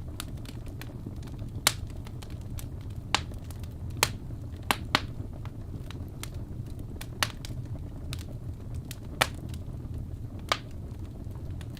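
Fireplace crackling: sharp wood pops at irregular intervals, about eight loud ones, over a steady low rumble.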